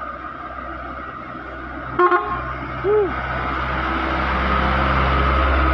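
A vehicle horn gives a short toot about two seconds in, then a heavy vehicle's engine rumbles louder and louder as it approaches along the road.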